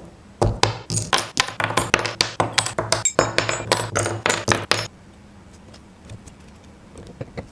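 Small metal construction-kit pieces clinking and rattling against each other in a rapid run of sharp clinks for about four seconds, stopping abruptly, followed by a few faint ticks.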